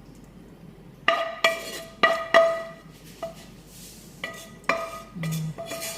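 A utensil knocking and clinking against a metal pot, about eight irregular strikes, each leaving a short metallic ring.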